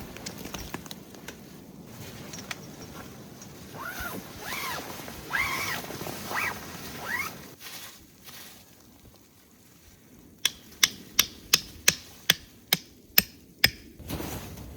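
A dog whining in a few short rising-and-falling cries, then a quick run of about ten sharp knocks, about three a second, like hammer strikes.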